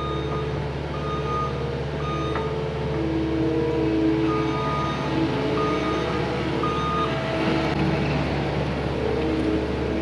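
Backup alarm of a reversing heavy machine beeping about once a second over its diesel engine running steadily.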